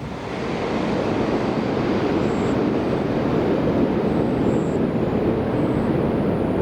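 Jet airliner passing close, its engines making a loud, steady, broad rumble that comes in abruptly and holds level throughout.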